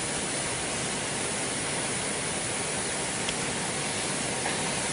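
Steady hiss of background noise, with two faint clicks about three and four and a half seconds in.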